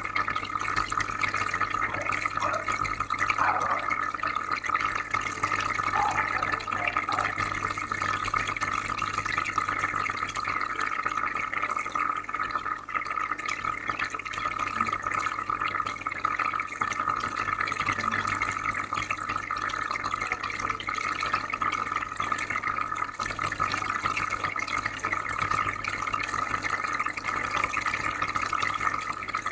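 Aquarium filter running: steady bubbling and trickling water over a low, even hum from the filter.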